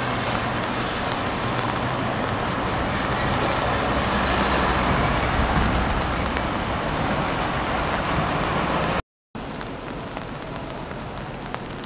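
Hanshin 5500-series electric train running along an elevated viaduct: a steady rumble with a low hum that swells toward the middle. It drops out briefly about nine seconds in and comes back quieter.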